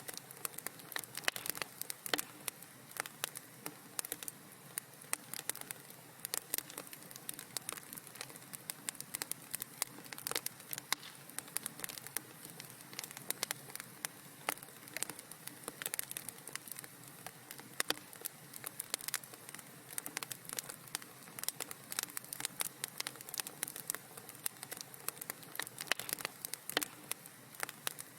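Wood fire in a fireplace crackling, with many small, irregular pops and snaps over a soft steady hiss.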